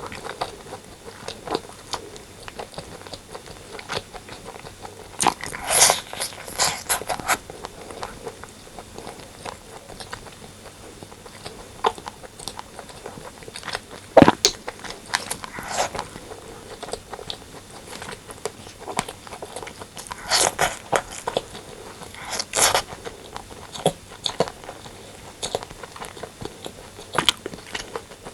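Close-miked eating: chewing and biting of braised pork and rice, with wet mouth clicks and smacks in irregular clusters, several louder bites among them.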